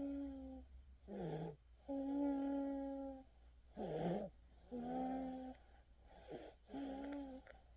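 A sleeper breathing noisily in a wheezy, whistling snore, about four breaths. Each breath has a short rough part with a wavering pitch and a longer part held at one steady, whistling pitch.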